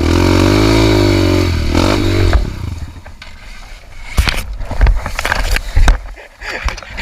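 Trail motorcycle engine revving hard, its pitch wavering up and down, then cutting out about two and a half seconds in. Irregular scraping and clattering knocks follow.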